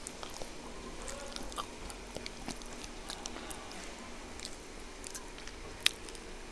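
Close-miked chewing of a burger, with soft wet mouth clicks throughout and one sharp click near the end.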